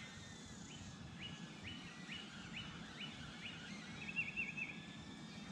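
A songbird calling: a run of short rising notes, about two a second, then a brief quick trill about four seconds in, over faint outdoor background noise.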